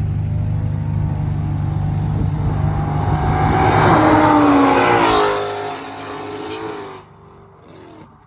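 Cars racing past under hard acceleration: engine pitch climbs to its loudest about four to five seconds in, then drops and fades as they pull away.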